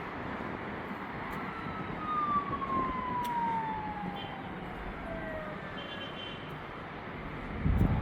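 A siren wailing over steady street noise, sweeping in one long slow fall in pitch from a little over a second in; a short low thump comes near the end.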